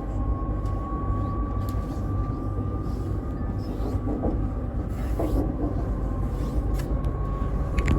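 Steady low rumble of a moving vehicle, with a faint high whine that slowly rises in pitch.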